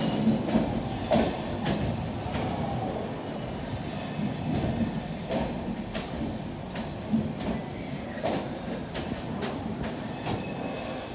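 Express train's passenger coaches rolling past: a steady low rumble of wheels on rail with irregular sharp clacks as the wheels cross rail joints.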